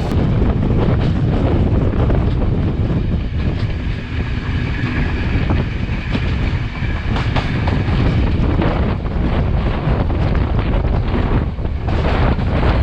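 Class S13 diesel multiple unit running on the line: a loud, steady rumble of wheels on rail with scattered clicks over rail joints, and wind buffeting the microphone. A faint high whine comes in for a few seconds in the middle.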